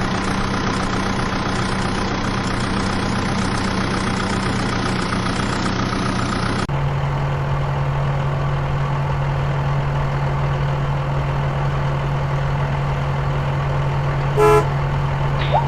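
Steady tractor engine drone that switches abruptly to a lower-pitched drone about seven seconds in, with a short horn toot near the end.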